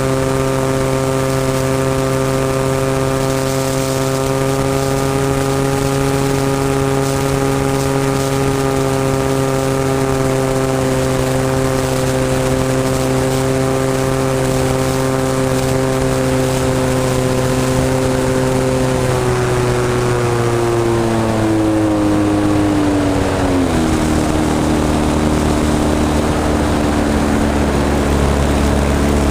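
SV Hobbies 26cc two-stroke gas engine of a radio-controlled model airplane running steadily at high throttle, then throttled back about two-thirds of the way through, its pitch falling over several seconds to a lower steady speed.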